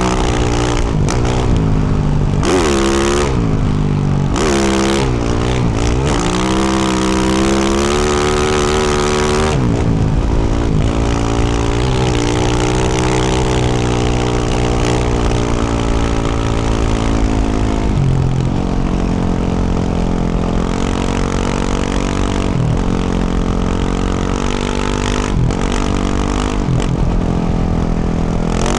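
Yamaha YZ450F's single-cylinder four-stroke engine through a Yoshimura RS-12 exhaust, revved up and down repeatedly for about the first ten seconds, then held at a steadier pitch with short dips as the throttle is rolled off.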